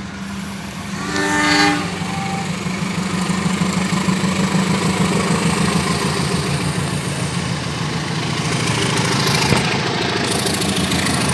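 Passenger train passing close by: a short horn blast about a second in, then the diesel locomotive and carriages rolling past in a steady rumble that grows louder toward the end.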